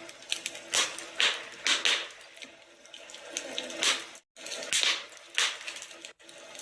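Wood fire in a fireplace crackling, with frequent irregular sharp pops over a steady hiss. The sound cuts out briefly twice, in the second half.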